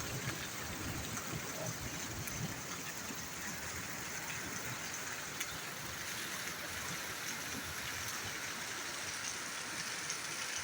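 Steady rain falling, with rainwater running and trickling.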